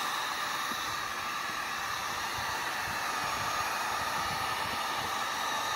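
Steady blowing hiss of a hot-air blower running continuously, such as an electric heat gun.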